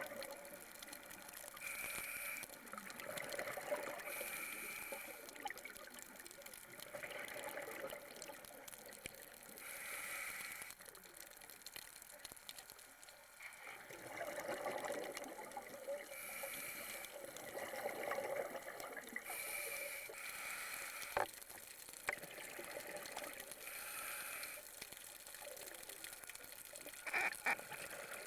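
Underwater sound of scuba divers breathing through their regulators: bubbling bursts of exhaled air that come every few seconds over a steady watery hiss. There are a few sharp clicks, one about two thirds of the way in and a couple near the end.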